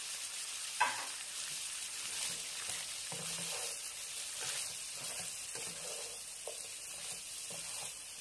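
Lamb offal and artichoke pieces sizzling in hot oil in a frying pan, stirred with a wooden spoon that knocks and scrapes against the pan now and then, most sharply about a second in.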